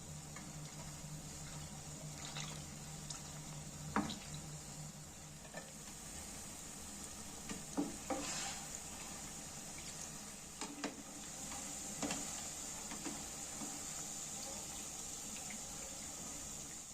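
Batata vadas deep-frying in hot oil, a steady sizzle, with a few sharp knocks of a spoon against the pan.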